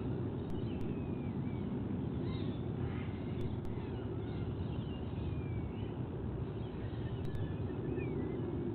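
Outdoor nest-camera ambience: a steady low rumble with faint, high, wavering bird chirps scattered through it.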